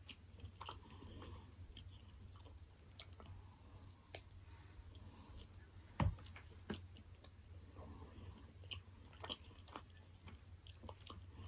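Faint chewing and mouth clicks of someone eating boneless chicken wings, with scattered small smacks and a sharper knock about six seconds in, over a steady low hum.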